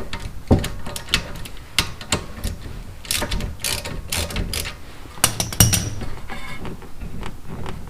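Hand ratchet clicking in irregular spurts with metal tools knocking, as bolts are worked on a rear brake caliper. Sharp clicks for about six seconds, then lighter ticking near the end.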